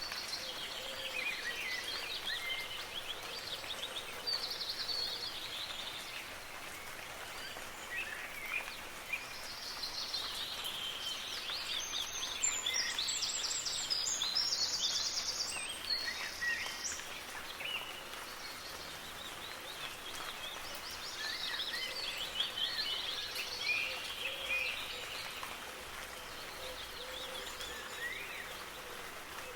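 Several songbirds chirping and singing over the soft, steady hiss of light rain. The birdsong gets busier near the middle, with a fast, high trill.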